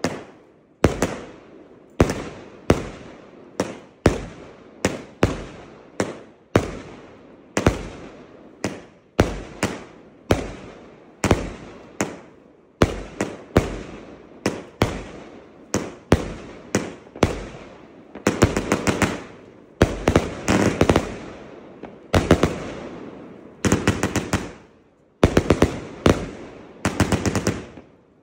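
A Pyrocentury El Senor 144-shot 25 mm fireworks compound cake firing: a steady run of sharp bangs, a little more than one a second, each trailing away. From about two thirds of the way in, the shots come in quick rapid-fire clusters.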